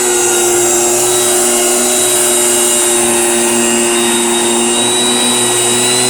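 Small engine of a motorized garden sprayer running steadily at constant speed, with a steady hiss over it.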